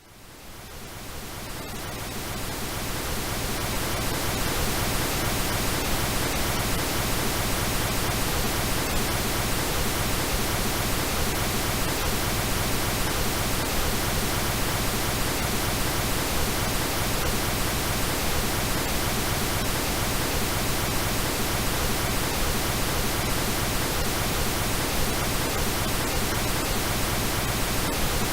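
Synthetic pink noise, an even hiss across all pitches, fading in over the first few seconds and then holding steady.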